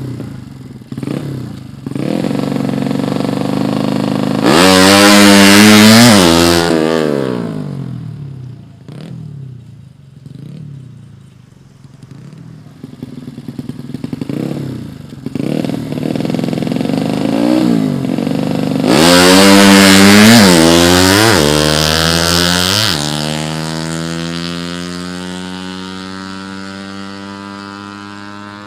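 Tuned 115cc drag-bike motorcycle engine being free-revved: a few short blips, a hard rev to high pitch about five seconds in, a spell at low idle with small blips, a second hard rev about twenty seconds in, then the revs sinking slowly away.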